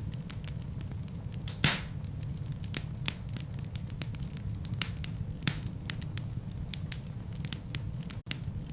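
Fire burning in a fireplace: a steady low rumble of flames with scattered sharp crackles and one louder pop about two seconds in. The sound cuts out for an instant near the end.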